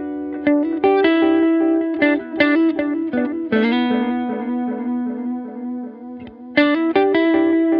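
Fender Telecaster electric guitar played solo, with funky blues-rock phrases of picked single notes and short chord stabs. About halfway through, a held note fades out, and a quick run of notes starts near the end.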